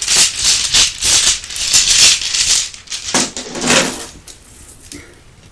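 Close-up rattling and shaking, like small objects shaken in a container, in repeated loud bursts for about four seconds, then fading to soft scattered ticks.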